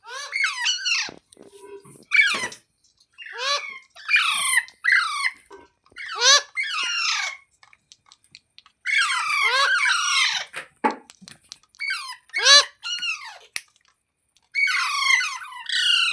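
Parrot calling: a long run of short, harsh screeching calls, each sliding down in pitch, in quick bursts with brief pauses between.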